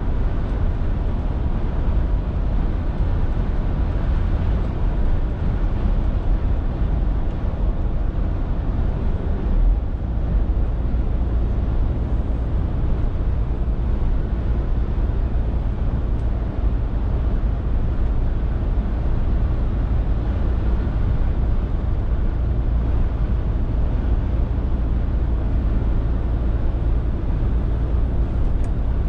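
Scania R450 lorry's 13-litre six-cylinder diesel running steadily under way, a constant low engine drone mixed with road and tyre noise. There is a brief low thump about ten seconds in.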